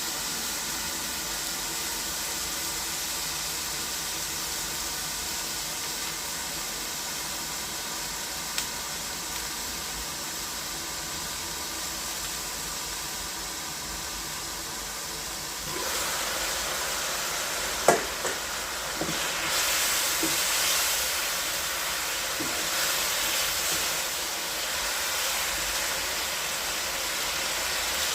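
Food frying in a pan: a steady sizzling hiss that grows louder about two-thirds of the way through. Just after, there is one sharp clink and a few lighter taps, as of a utensil against the pan.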